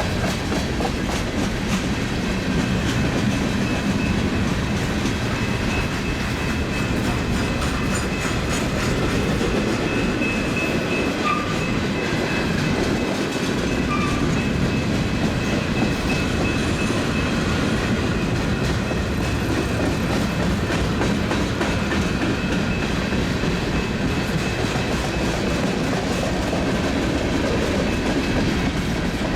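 A long Union Pacific mixed freight train rolling past at a steady speed: the continuous rumble of wheels on rail, with clickety-clack from the cars' wheels over the rail joints and a thin, steady high tone above it.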